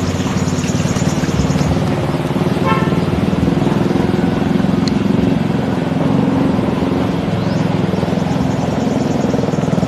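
An engine running steadily throughout, loud and even, with a brief high-pitched call about three seconds in and faint high chirping near the start and the end.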